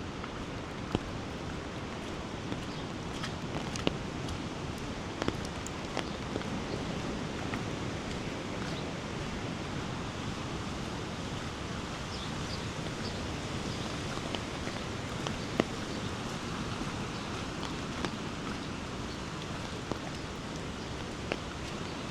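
Steady outdoor hiss of wet weather along a flooded riverside, with a few scattered sharp taps at irregular moments.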